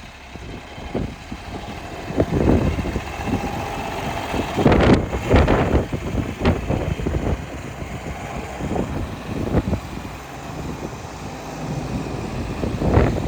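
1971 John Deere 4320 tractor's six-cylinder diesel engine running, with irregular louder bursts, strongest about five seconds in.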